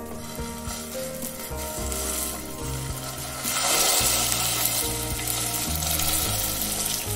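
Tsukune mince mixture sizzling in hot oil in a frying pan as it is squeezed out of a bag; the sizzle grows louder about three and a half seconds in.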